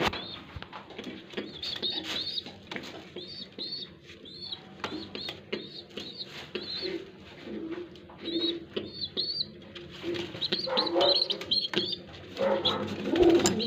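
Pigeons cooing, louder in the last few seconds, with a steady run of high, arching chirps over the top and scattered sharp clicks.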